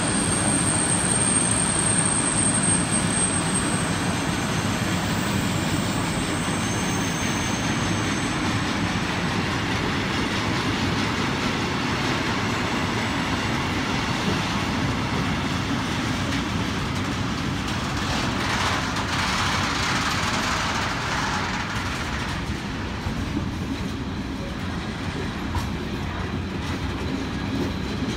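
Freight train of container and tank wagons passing, its wheels rumbling and clattering steadily over the rails. A thin high whine sounds in the first few seconds and fades out.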